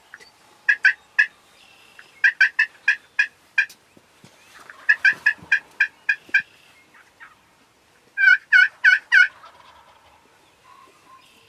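Turkey yelping: four runs of short, sharp yelps, three to seven notes each. The last run, near the end, is the loudest.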